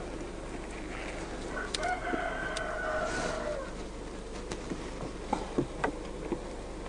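A rooster crowing once, one long held call that drops in pitch at its end, followed by a few light clicks.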